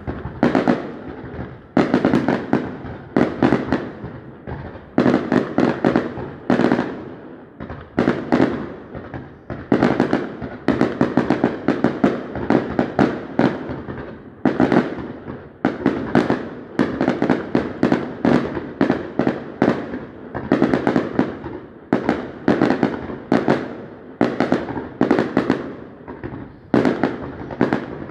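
A fireworks display going off without a break: many sharp bangs and pops a second from bursting aerial shells, in clusters that swell and ease every second or two.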